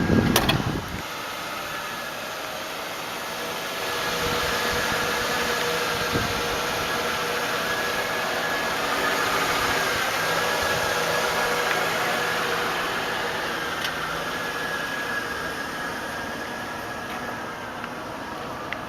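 2000 Lincoln Town Car limousine's 4.6-litre V8 idling steadily, heard from outside the car. It gets a little louder a few seconds in and eases off near the end. A brief low thump right at the start.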